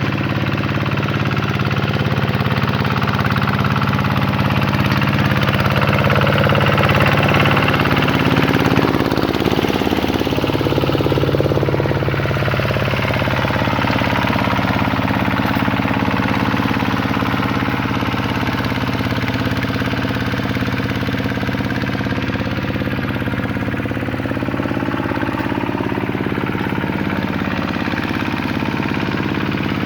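Vikyno RV125-2 hand tractor's single-cylinder diesel engine running steadily under load while plowing a paddy field. Its pitch dips and wavers for a few seconds about a third of the way in, then settles again.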